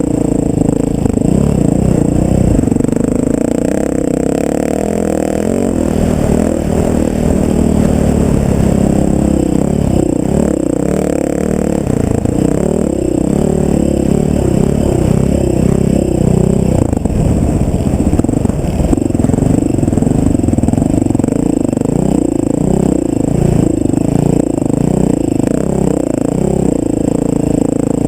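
Off-road vehicle engine running under changing throttle, its pitch rising and falling again and again, steadier near the end.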